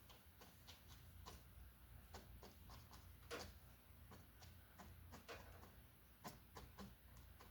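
Near silence with faint, irregularly spaced light taps and clicks, a few a second, from a paintbrush dabbing and working on canvas.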